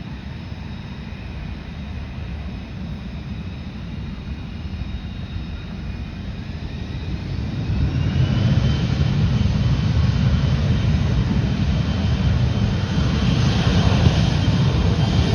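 Jet aircraft engines spooling up: a steady rumble joined by a rising whine that levels off, with the sound growing louder about halfway through and holding at high power, as for a takeoff run.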